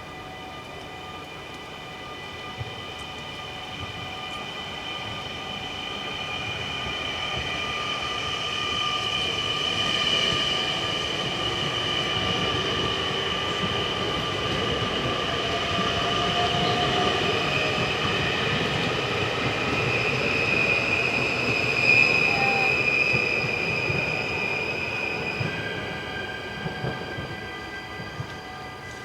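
A train passing through a level crossing: it grows louder over several seconds, runs at its loudest for about the middle half, then fades near the end. Steady tones from the crossing bells sound through the pass.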